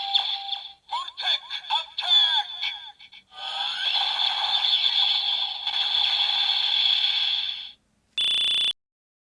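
Electronic synthesized sound effects: chirping, warbling tones with a steady high note, then a short steady beep near the end that cuts off suddenly.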